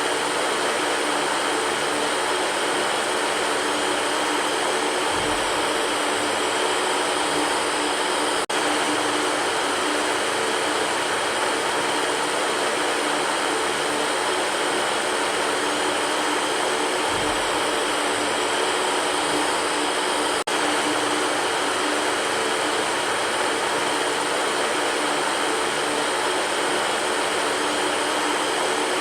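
Electric fan running steadily: a constant whooshing rush of air with a faint steady hum under it, briefly dipping twice.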